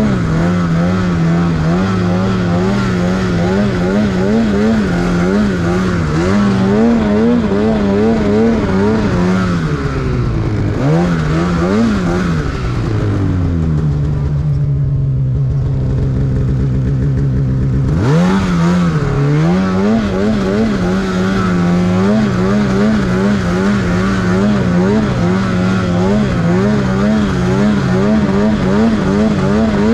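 Snowmobile engine running at high revs with the throttle constantly worked, so the pitch wavers up and down. About halfway through it drops to a lower, steady pitch for a few seconds, then revs sharply back up.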